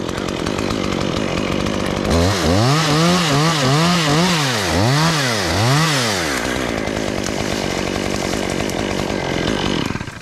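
Two-stroke chainsaw running hard, its engine speed rising and dipping several times in a row, then holding steady before it dies down sharply near the end.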